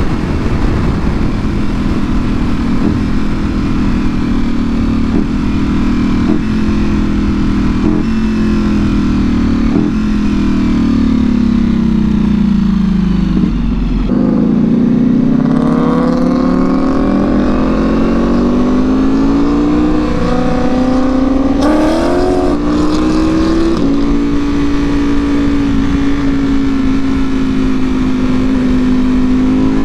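Ducati Panigale V4R's V4 engine through an Akrapovič full exhaust, ridden on the road. The engine note falls slowly for about the first half as the bike slows, then rises again and settles into a steady cruise, with a short blip of revs about two-thirds of the way through.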